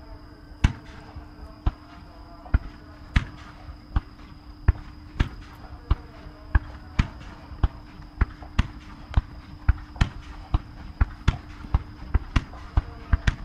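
A fireworks display going off in a rapid series of sharp bangs, irregular at first and quickening toward the end.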